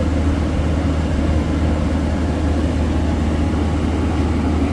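A heavy diesel engine running steadily at an even speed, with a constant low hum and no revving or knocks.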